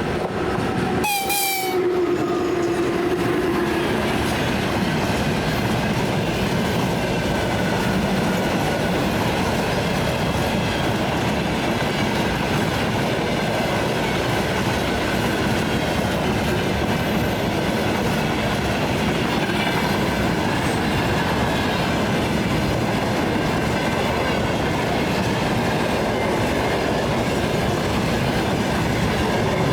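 Empty freight train rolling past, wagons rumbling and wheels clacking steadily over the rail joints. There is a short horn blast about a second in.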